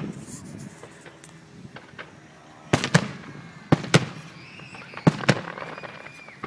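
Fireworks going off: sharp bangs in three close pairs, about a second apart, starting near the middle.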